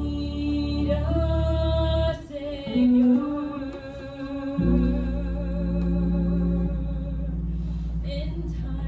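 Church music: an organ holds sustained chords while a voice sings long, held notes with a slow vibrato. The chord changes about two seconds in and again near the middle.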